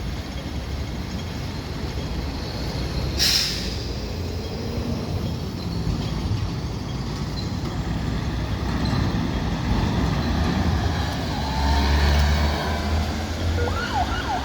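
Street traffic with heavy vehicles rumbling, and one short, sharp air-brake hiss from a bus or truck about three seconds in. The rumble grows louder toward the end.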